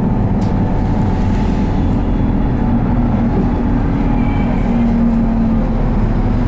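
Interior running sound of an Isuzu Erga city bus (2KG-LV290N3) under way: a steady low diesel engine drone and road rumble. The engine hum rises slightly in pitch about four seconds in as the bus picks up speed.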